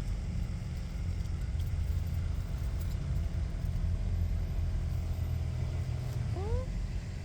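A steady low rumble, with a short rising pitched call about six seconds in.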